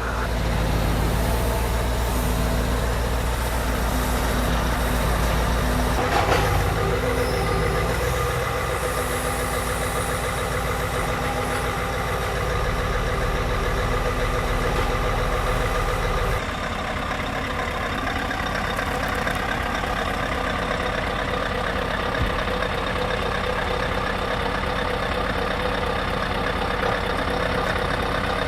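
Scania R770's 16.4-litre V8 diesel engine running steadily at low revs. There is a brief burst of noise about six seconds in, and the sound drops a little and changes abruptly about sixteen seconds in.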